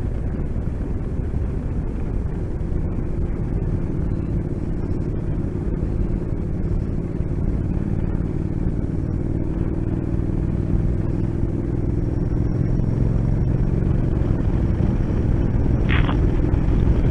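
Motorcycle engine running at a steady cruising speed under wind rush.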